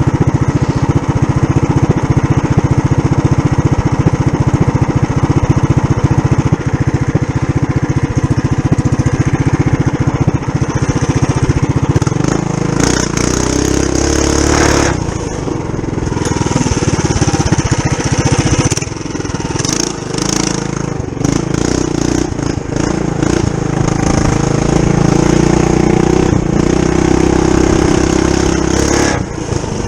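Small single-cylinder Tillotson 212cc engine of a Trail Master mini bike running with its governor removed, its note shifting as the throttle changes while riding a trail. Loud rough rustling and rattling passes twice, about twelve seconds in and again around twenty seconds.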